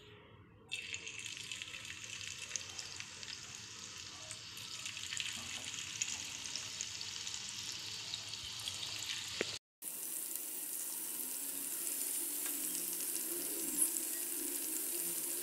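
Potato smileys deep-frying in hot oil, a steady sizzle that starts about a second in as the first pieces are dropped in and grows a little as more go into the pan. It breaks off briefly about ten seconds in.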